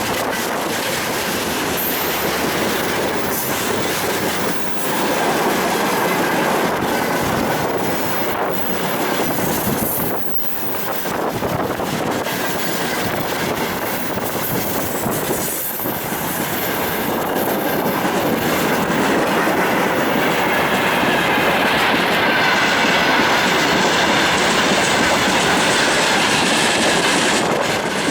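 Freight train wagons rolling past close by, wheels clattering over the rail joints in a continuous loud rush. In the second half a thin steel-on-steel wheel squeal rises over the noise.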